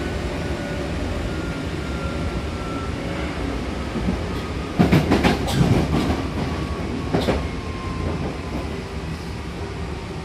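Hankyu electric train heard from inside the car, running and slowing as it nears a station: a steady rumble under a thin whine that slides slowly down in pitch. A cluster of loud wheel clatters over the track comes about five seconds in, with another about seven seconds in.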